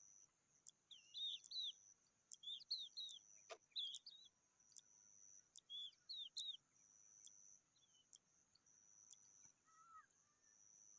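Bird chirps: short, quick clusters of high chirps from about a second in to past six seconds, with a fainter call near the end. A steady high insect buzz runs underneath, and a single sharp click comes midway.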